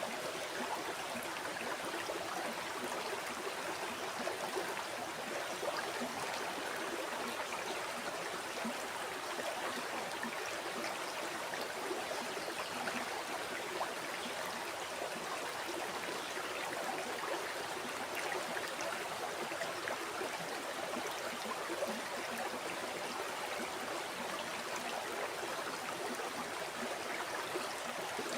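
River water flowing over stones, a steady babbling rush with fine gurgling detail and no separate events.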